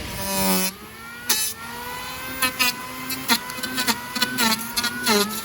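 Electric power tool motor running, its pitch climbing as it spins up. Repeated sharp knocks follow, with the motor's tone dipping briefly at each, as if it is loaded by cuts.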